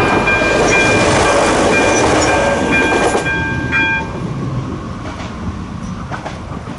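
A train running past the level crossing, loud at first and fading away from about three seconds in. Over it the crossing's ZV-02 electronic bell sounds a steady ringing tone that stops about four seconds in.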